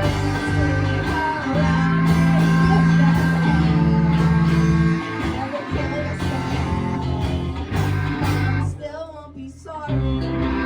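Rock band playing live, with singing over guitar. The bass and drums drop out for about a second near the end, then come back in.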